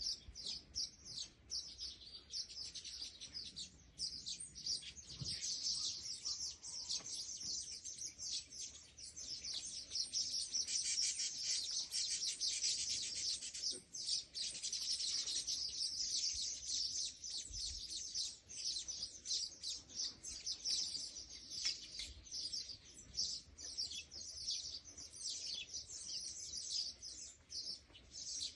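Small birds chirping continuously: many rapid, high-pitched calls overlapping without pause.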